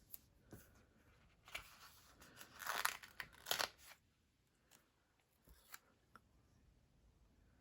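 Paper stickers being peeled off their backing sheet: a short rasping tear with paper crinkling, loudest about three seconds in, followed by a few light taps.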